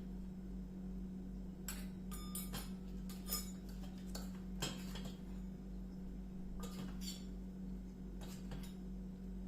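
Kitchen utensils clinking and tapping against dishes in short, irregular knocks, some ringing briefly. Under them runs a steady low hum.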